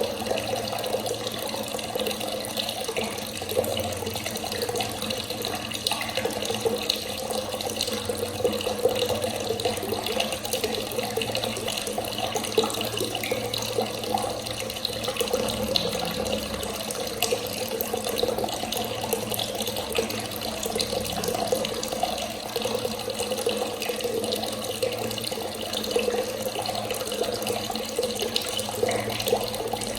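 Clear water running steadily from a tap and splashing.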